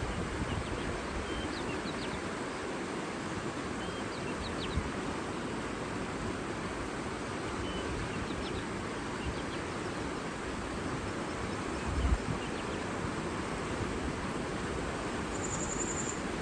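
Steady rush of flowing water with faint, scattered bird chirps, mostly in the first half; a brief low gust of wind on the microphone about twelve seconds in.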